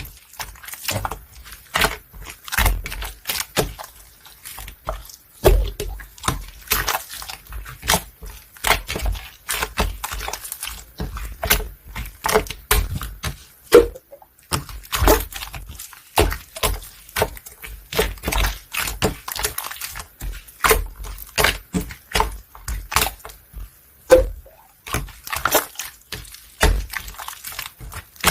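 Bubblegum-textured slime being squished and pressed by hand: a dense, irregular run of sticky clicks and pops over soft low squelches.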